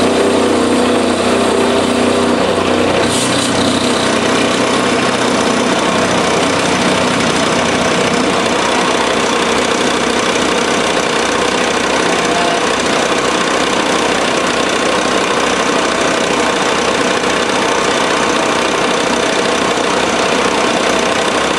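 Small milling machine running, its quarter-inch end mill cutting metal with a steady, loud mechanical noise that changes character about three seconds in.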